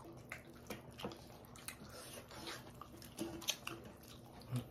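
Close-up eating sounds: chewing and lip-smacking as chicken and rice are eaten by hand, with fingers mixing rice on steel plates. Short, scattered wet clicks throughout.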